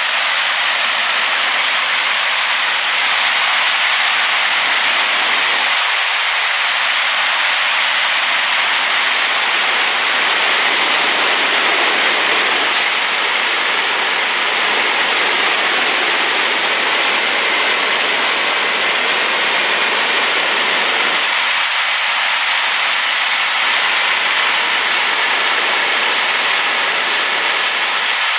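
Waterfall in full flow, swollen by rain, giving a loud, steady rushing noise that stays even and unchanging.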